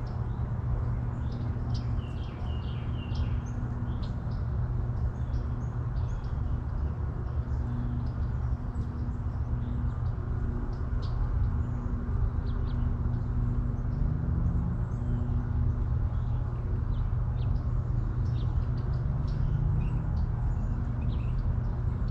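Small birds chirping and calling on and off over a steady low hum.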